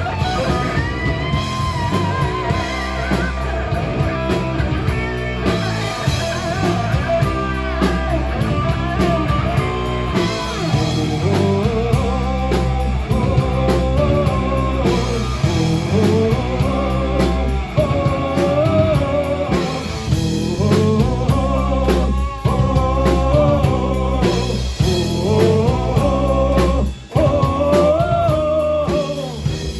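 Live rock band playing: electric guitars over bass and a drum kit, with a melody line rising and falling above them. The sound drops out briefly near the end, then comes back in.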